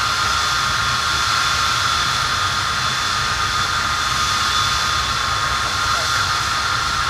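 Avro Vulcan's four Rolls-Royce Olympus turbojets running steadily on the ground: a loud, even jet roar with a steady high compressor whine over it.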